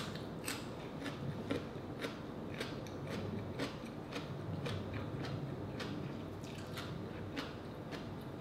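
Close-miked chewing of crisp raw radish: even crunches about twice a second.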